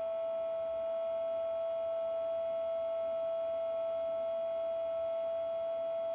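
Small electric fan motor of a model locomotive's smoke unit running, giving a steady, unchanging high whine.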